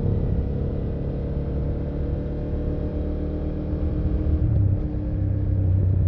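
BMW F800GS parallel-twin engine and exhaust running steadily while the motorcycle is ridden, picking up a little in the last second or two.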